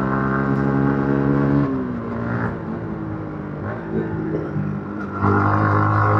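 Yamaha MT-15's single-cylinder engine running on the road through its stock exhaust. Its steady tone drops away about a second and a half in as the throttle comes off. It runs quieter for a few seconds, then comes back louder under throttle near the end.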